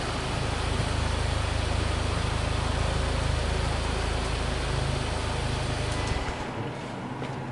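Mitsubishi Delica D:5 engine idling steadily after a rev. The engine sound drops away suddenly about six seconds in, as if the engine is switched off, leaving a few faint clicks.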